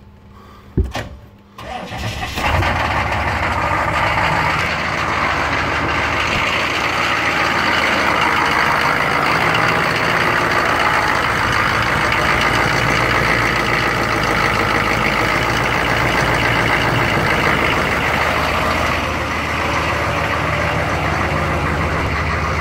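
6.5 L turbo diesel truck engine starting: a click, brief cranking, then it catches about two and a half seconds in and idles steadily. It is running on Sea Foam fuel treatment poured into the fuel filter housing.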